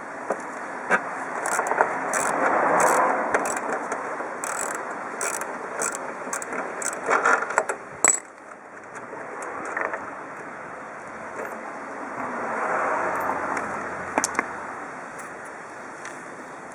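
Mechanical clicking and ratcheting: a run of sharp, irregular clicks through the first half, with swells of scraping noise in between.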